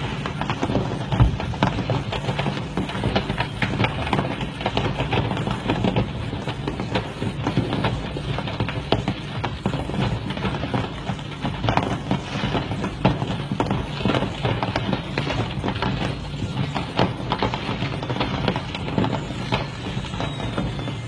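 Fireworks going off in a burning firework factory: a dense, continuous crackle of rapid pops and small bangs, with a louder bang about a second in.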